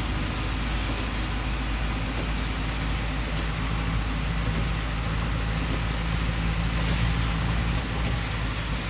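City road traffic in a jam: vehicle engines running at low speed, with one engine's steady hum standing out for several seconds in the middle, over a constant hiss.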